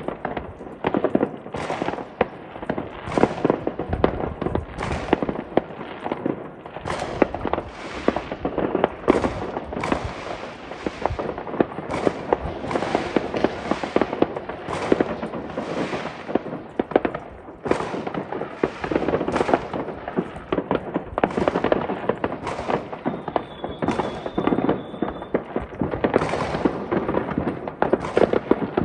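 New Year fireworks going off continuously: a dense crackle with sharp bangs about once a second, and a brief high whistle about three-quarters of the way through.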